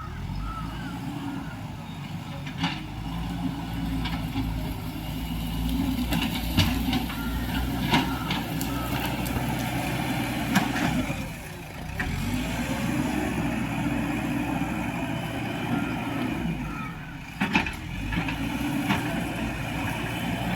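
JCB 3DX backhoe loader's diesel engine running steadily at work, with sharp clanks now and then, loudest a third of the way in and near the end. The engine level dips briefly a little past the middle.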